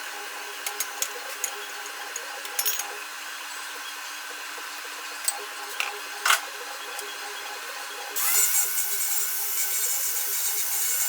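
Scattered clicks and knocks of hand work on metal, then a power tool starts about eight seconds in and keeps running with a steady hiss.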